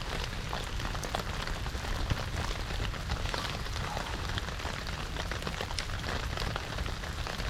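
Steady rain falling around the camp, a continuous hiss dotted with many small ticks of drops.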